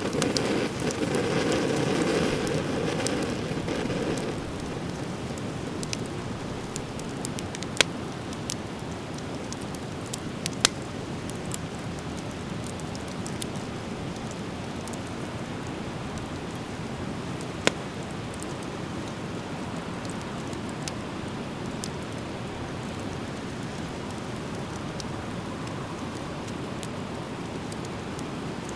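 Driftwood fire burning in a fire pit: a steady hiss and crackle with a few sharp pops, three of them standing out about eight, eleven and eighteen seconds in. It is louder for the first few seconds.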